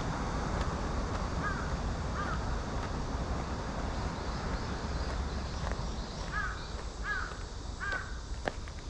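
A crow cawing five times: two caws, a pause of several seconds, then three more in quick succession, over a steady outdoor background hiss.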